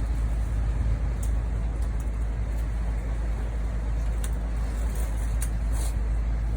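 Steady low rumble of cabin noise inside a Tokaido Shinkansen car standing still, with a few faint clicks.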